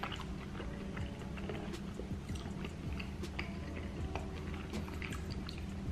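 Close-up chewing of a mouthful of burrito: soft, wet mouth sounds with many small lip and tongue clicks, over a steady low hum.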